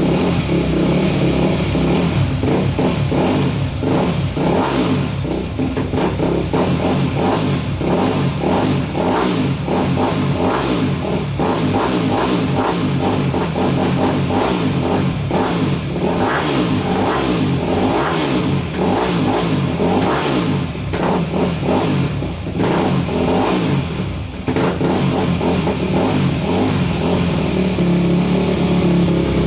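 2004 Yamaha YZ250F single-cylinder four-stroke dirt bike engine running and being revved on its first start after a bottom-end rebuild with a new crankshaft.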